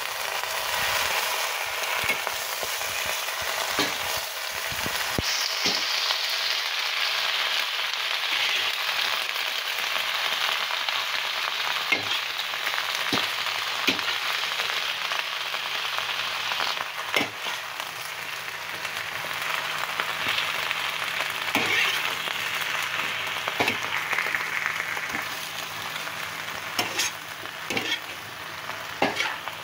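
Napa cabbage sizzling in a hot wok as it is stir-fried, with scattered clicks and scrapes from the stirring utensil against the pan.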